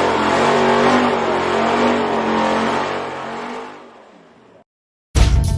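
Dodge Ram's Hemi V8 engine running hard under acceleration, fading out about four seconds in. After a short silence, music starts near the end.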